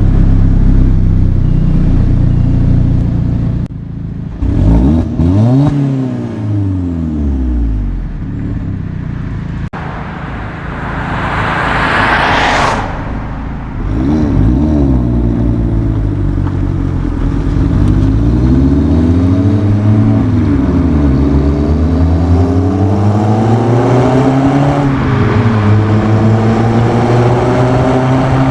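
Alfa Romeo Giulietta Quadrifoglio Verde's turbocharged four-cylinder engine and exhaust under hard acceleration, the pitch climbing and dropping back several times as it is shifted up through the gears. Partway through, a loud rushing noise swells and stops suddenly.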